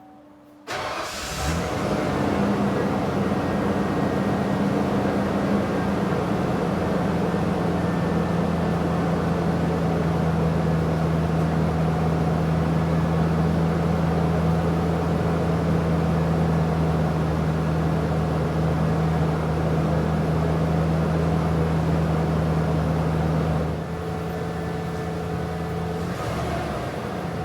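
1994 Ford F-150's 5.0-litre (302) V8 on its stock exhaust, starting abruptly about a second in and then idling steadily. The idle settles a little lower after a few seconds, and the sound gets somewhat quieter near the end.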